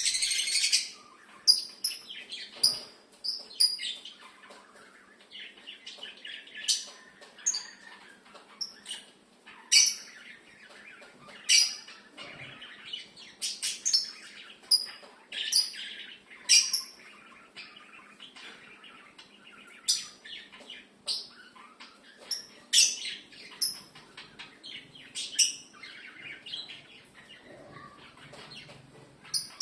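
Lovebirds chirping: sharp, high chirps every second or so, with softer chattering between them.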